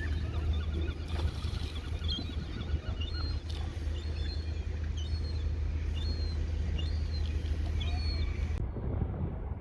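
Birds calling in many short chirps and squawks over a steady low rumble, until an abrupt change near the end leaves mostly low rumbling noise.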